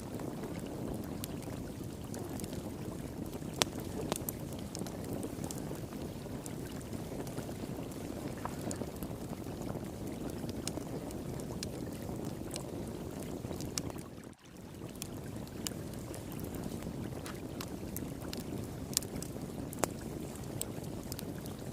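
Wood fire crackling beside flowing water: a steady low rush of running water with scattered sharp pops and snaps from the burning wood. The sound drops out for a moment about two-thirds of the way through.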